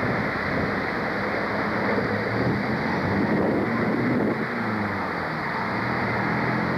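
Railway train running past, a steady rumble with wind on the microphone; a locomotive engine's drone grows stronger near the end.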